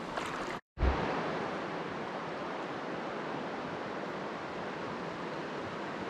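Steady rush of a flowing river, an even hiss of moving water. The sound cuts out completely for a moment less than a second in, then resumes unchanged.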